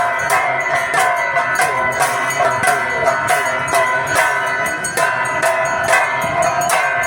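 Devotional aarti music: a wavering sung or played melody over many ringing bells, with sharp percussion strokes keeping a steady beat of about three a second.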